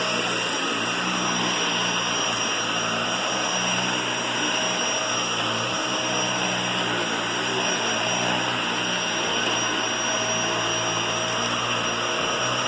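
Vacuum cleaner running steadily, a constant rushing motor noise with a low hum and a thin high whine.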